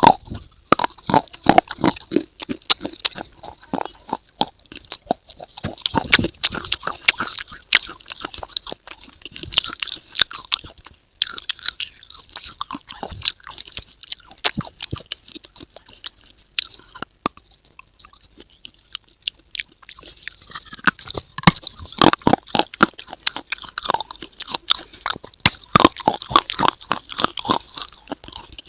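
Someone chewing and crunching food close to the microphone, with many irregular crunches and a short pause about two-thirds of the way through.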